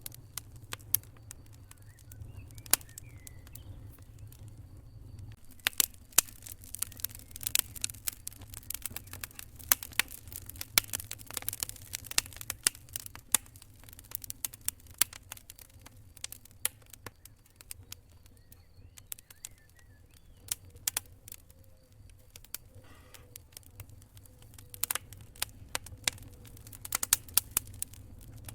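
Wood campfire crackling, with irregular sharp pops and snaps that come thick and fast in two busier spells, the first about six seconds in and the second near the end. A faint high cricket trill comes and goes behind it.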